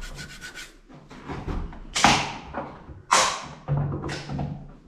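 Three sharp knocks on wood about a second apart, each with a short ringing tail, from timber being struck during carpentry work.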